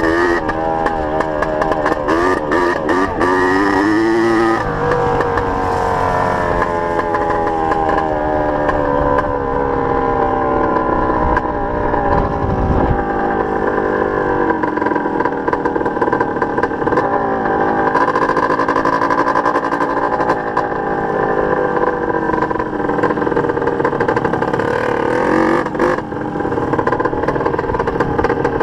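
Small dirt bike engine running under way, its pitch climbing and falling as it accelerates and shifts, with a sudden drop in pitch about four and a half seconds in.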